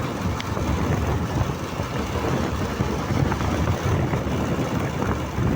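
Wind buffeting the microphone on a moving motorcycle, an uneven rumble, with the bike's engine and road noise underneath.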